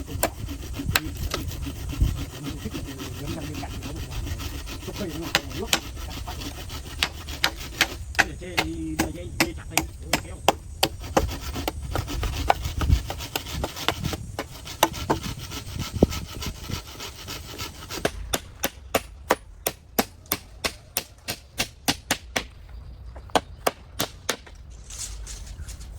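Hammer blows on bamboo house framing: scattered strikes at first, then a steady run of about two blows a second through most of the last third.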